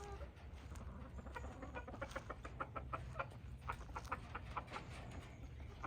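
Hens clucking: a rapid run of short clucks, several a second, over a faint steady low rumble.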